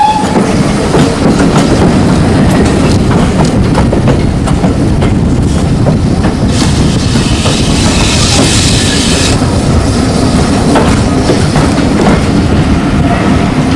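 Train running on the rails of a heritage railway, a steady rolling noise with scattered clicks. About six and a half seconds in, a hiss rises over it for some three seconds, then stops suddenly.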